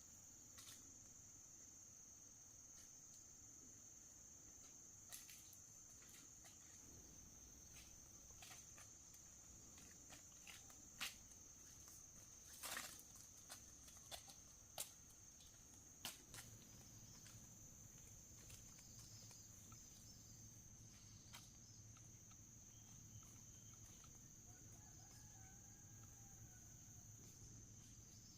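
Near silence with a faint, steady high-pitched insect drone, broken by scattered sharp clicks and taps in the first half and a faint bird call near the end.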